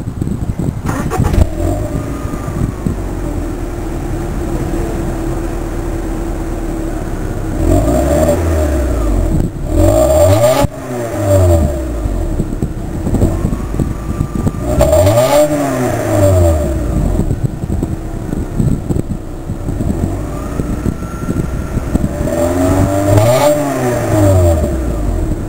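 2001 Honda Prelude's four-cylinder engine through its stock exhaust, idling steadily, then free-revved several times: pitch rises and falls back to idle, with revs about 8, 15 and 23 seconds in.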